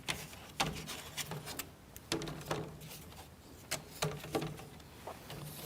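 Light, irregular clicks and taps of thin plywood model-kit boards being handled and set down on a table.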